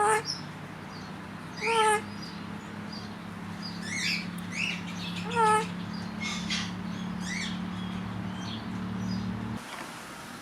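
Pet parrots calling: three loud short squawks, one right at the start, one about two seconds in and one about five and a half seconds in, amid many quick high chirps. A steady low hum underneath stops abruptly near the end.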